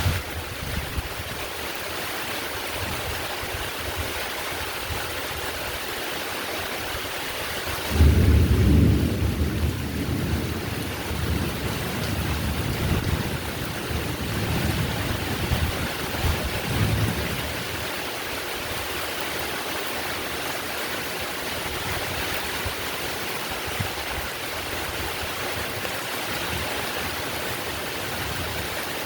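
Heavy, steady rain with a clap of thunder about a third of the way in, a low rumble that rolls on for about ten seconds before fading back under the rain.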